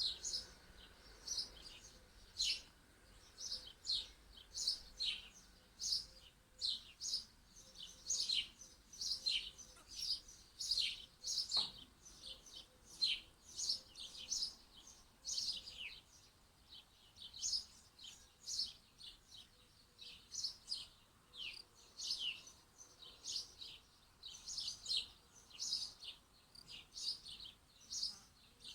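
Small songbirds chirping without pause: short, high, downward-sliding chirps following one another at one to two a second.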